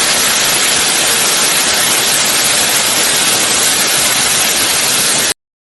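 Loud, steady rushing noise with no pitch to it, cutting off abruptly near the end.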